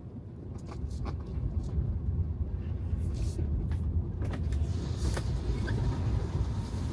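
Low, steady rumble of an electric car's tyres and road noise while driving on wet city pavement, with scattered clicks and knocks from the road surface and a brief hiss about five seconds in.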